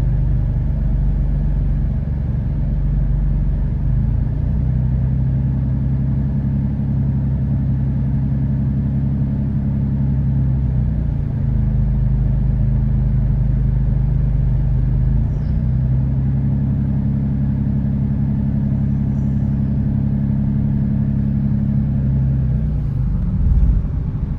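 2013 Dodge Durango's 3.6-litre V6 idling steadily, its note stepping slightly up and down a few times. The engine is misfiring on cylinders 1, 3 and 5, all on bank 1, a fault that persists despite new spark plugs and coils.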